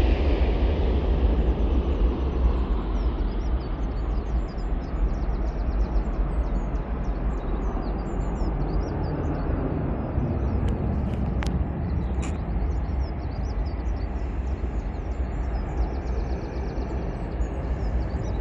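Jet engine noise of an Airbus A350-900's Rolls-Royce Trent XWB engines dying away over the first few seconds as the aircraft moves off, leaving a steady low rumble with wind buffeting the microphone.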